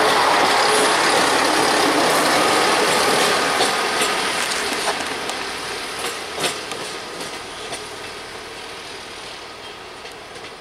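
A train running past and moving away, its sound fading steadily, with a series of sharp wheel clicks over rail joints midway.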